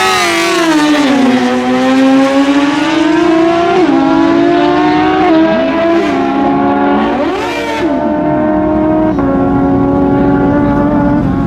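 Naturally aspirated stock drag-racing motorcycle engines running at high revs. The pitch dips, climbs and jumps in sudden steps, and a second engine sweeps up and back down about seven seconds in.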